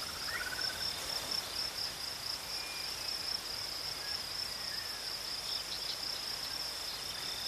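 A steady, high-pitched chorus of crickets or other insects trilling without a break, with a few faint, short whistled notes sliding in pitch now and then.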